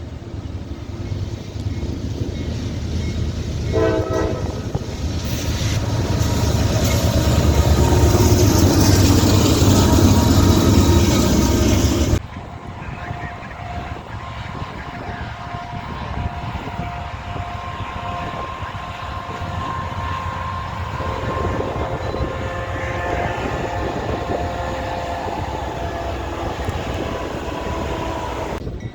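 A train passing with a deep rumble that builds to its loudest partway through, and a short horn blast about four seconds in. The sound cuts abruptly to a quieter train rumble with a steady horn-like tone held through the rest.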